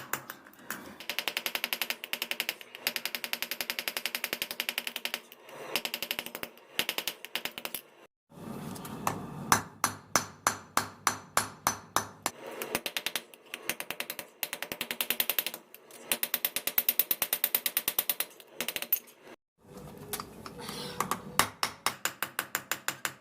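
Rapid, evenly paced metal strikes with a ringing tone, about seven a second, in long runs broken by two short pauses, like hammering on steel.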